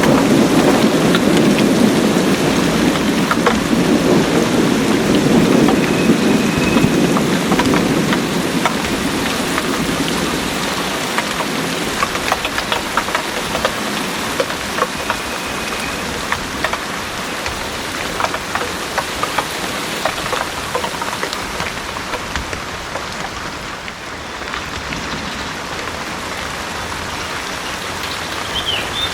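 Heavy rain pouring steadily, with many distinct drops ticking, under a low rumble of thunder that dies away over the first ten seconds or so.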